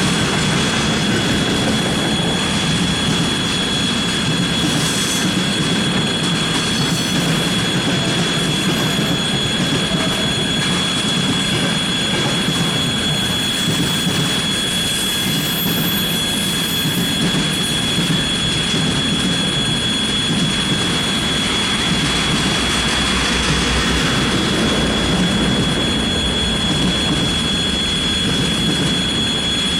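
Freight train hauled by a VL80S electric locomotive rolling steadily past, with wagons rumbling on the rails and a steady high-pitched whine over the rumble.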